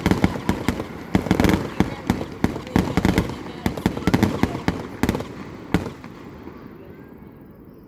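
Aerial fireworks going off in quick succession: a dense run of sharp cracks and deeper booms that thins out and stops about six seconds in.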